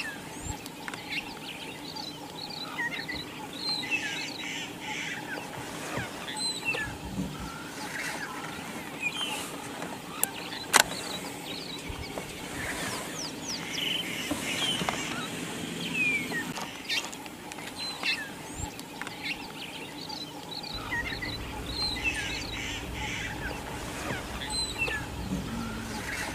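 Birds chirping and whistling in many short rising and falling calls, with a single sharp click about eleven seconds in.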